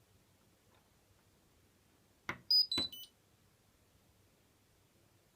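Hotpoint washing machine control panel: two button clicks about two seconds in, then a short electronic jingle of three beeps stepping down in pitch, the machine's tune as it is switched off.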